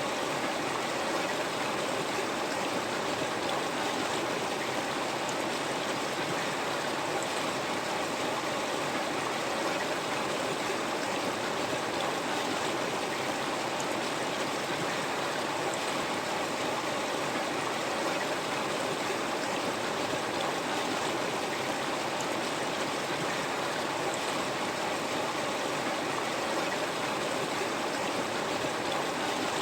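A river flowing, a steady, even rush of moving water with no breaks.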